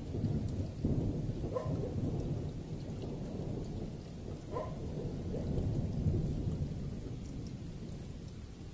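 Low rolling thunder rumbling on and slowly fading, over steady rain with scattered drops ticking. Two brief higher-pitched glides rise out of the rumble, about a second and a half and four and a half seconds in.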